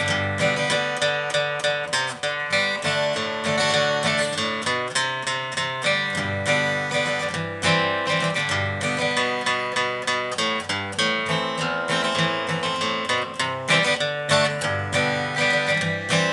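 Acoustic guitar played solo, an instrumental with a steady picked and strummed rhythm of several notes a second.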